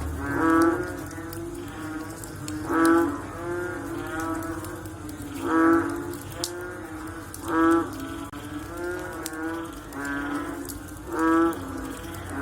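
Frogs calling after rain: deep, repeated croaking calls, five loud ones spaced two to three seconds apart with fainter calls from other frogs in between.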